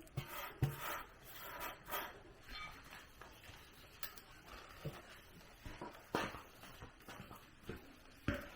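Faint, scattered short knocks and clicks at irregular intervals, with the loudest about six seconds in and just before the end.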